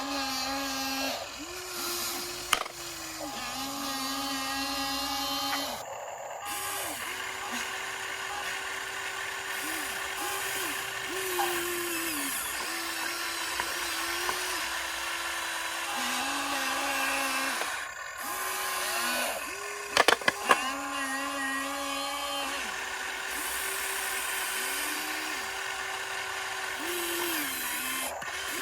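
Electric motors of a radio-controlled construction model whining. The pitch steps up and down every few seconds as the motors start, stop and change load. A few sharp knocks come about twenty seconds in.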